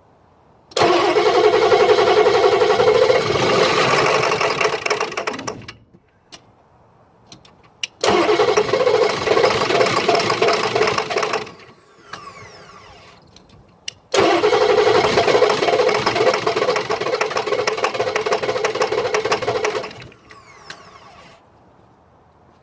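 Ford F-350 engine cranking on the starter in three attempts of several seconds each, with short pauses between, without catching. This is a no-start, and the owner reports that it knocks while cranking.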